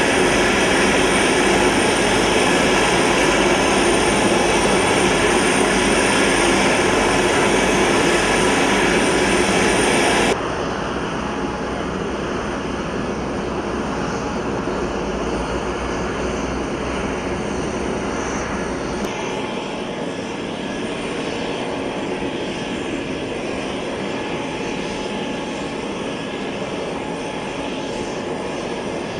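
Steady noise of C-5 Galaxy jet engines running. About ten seconds in it drops abruptly to a quieter, duller level, and it shifts again a little before twenty seconds.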